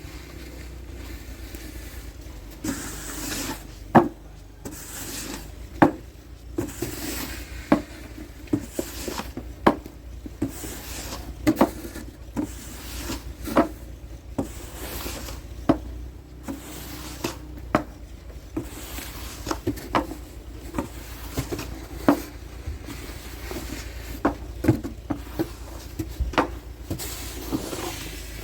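Footsteps crunching through deep fresh snow at a steady walking pace, about one step a second.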